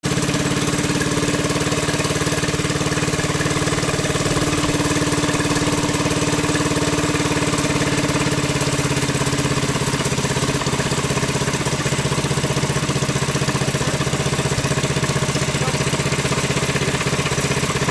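Honda GX200 single-cylinder four-stroke engine running steadily on a dynamometer test rig at about 80 percent of the test's target speed. A higher steady tone over the engine note fades out about halfway through.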